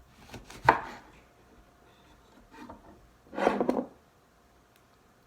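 Kitchen food-prep handling noises: a sharp knock just under a second in, then a short, rough scraping clatter a little past halfway, with faint taps between.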